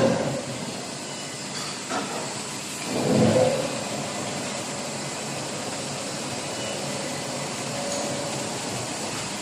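Injection molding machine running with a steady mechanical hum, a short click about two seconds in and a louder half-second surge about three seconds in, as the machine moves through its molding cycle.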